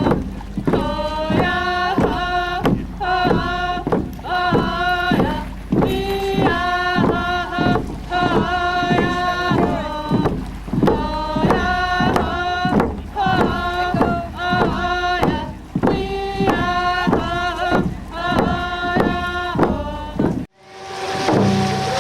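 Voices chanting a song in unison: one short phrase of sung notes repeated in a steady pulse of about two notes a second, over a low rumble of wind. The song cuts off suddenly near the end.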